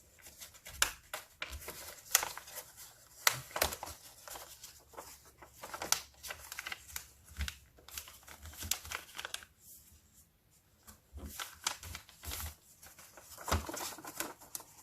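A sheet of paper being handled, folded and creased by hand: irregular crinkling and sharp crackles, easing off briefly about ten seconds in.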